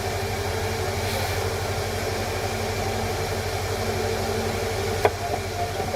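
Steady low hum with hiss, and a single short click about five seconds in.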